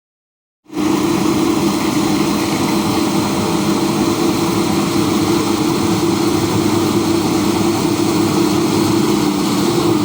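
Komatsu PC200 hydraulic excavator's diesel engine running steadily with a strong, even hum, cutting in abruptly less than a second in.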